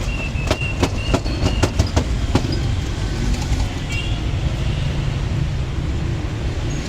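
Steady low rumble of a moving vehicle, with a quick run of sharp clicks and rattles over the first couple of seconds and a few brief high squeaks.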